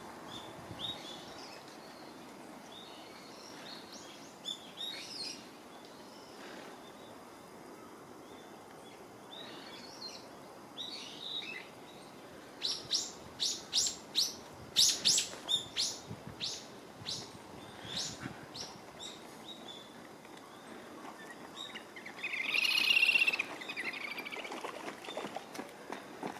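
Female Daurian redstart calling: scattered thin high chirps, then a run of sharp clicking notes about halfway through, and a short warbling call near the end.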